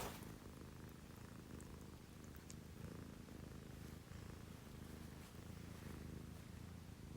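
Domestic cat purring: a soft, low, steady rumble.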